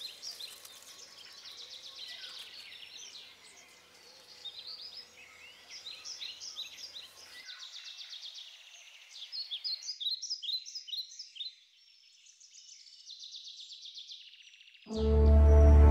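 Small birds chirping and singing in quick trills. Loud music starts abruptly near the end.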